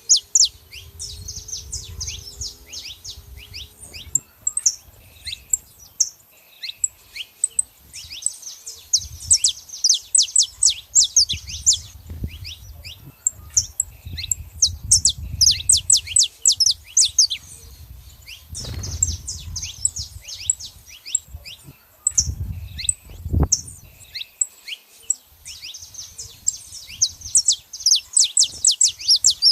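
Saffron finches calling: bouts of rapid, sharp, high chirps repeated in quick series. A low rumble comes and goes underneath, and there is one short thump about three-quarters of the way through.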